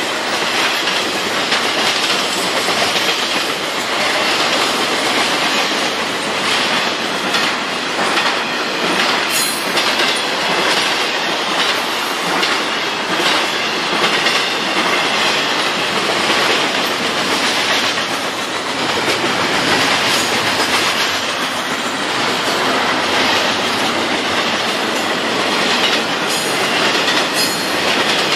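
Double-stack intermodal freight train rolling past at speed: a steady, loud rush of steel wheels on rail with a continual clatter of wheels over the track, and a few sharp high squeals or clanks now and then.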